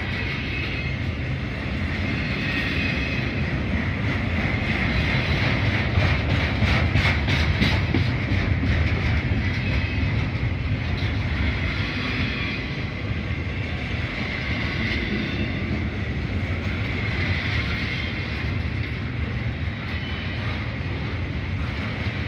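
Norfolk Southern double-stack container freight train rolling past: a steady rumble of wheels on rail. About halfway through there is a stretch of rapid clicking.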